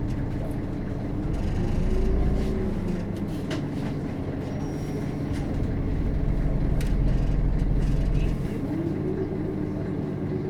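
Scania DC9 five-cylinder turbodiesel of a Scania K270UB bus heard from inside the bus, running under way with a deep rumble. Its note rises and falls, swelling about two seconds in and again from about six to eight seconds, then easing off, with light rattles and clicks from the body.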